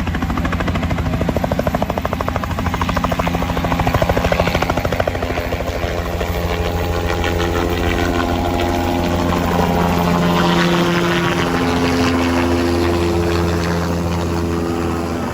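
State police helicopter running: rapid rotor-blade chopping over a steady engine hum, its tones shifting pitch in the second half.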